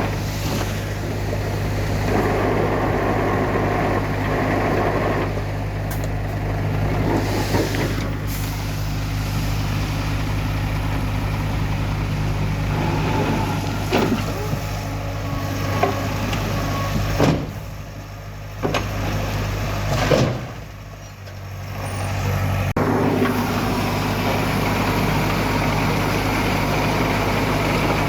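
Heavy diesel engines of a dump truck and bulldozer running steadily, with several sharp knocks and clanks, and the sound dropping away briefly twice in the second half.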